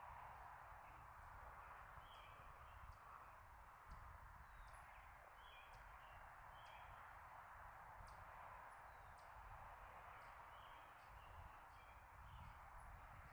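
Faint woodland ambience: small birds chirping now and then over a steady low background hiss.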